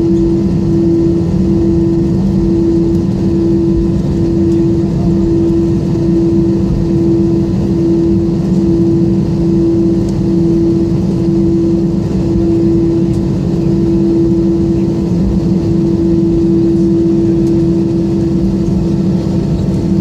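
Airbus A320 cabin noise while taxiing after landing: the jet engines running at idle, a steady loud hum with a low drone that pulses gently.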